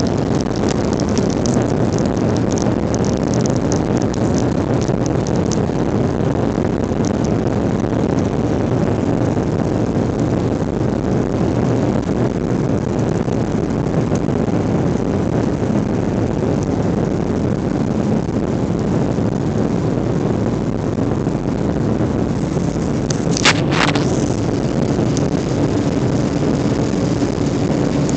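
Jet airliner's engines at takeoff thrust heard from inside the passenger cabin: a loud, steady roar through the takeoff run and climb. Light rattling comes in the first few seconds, and a single sharp knock sounds near the end.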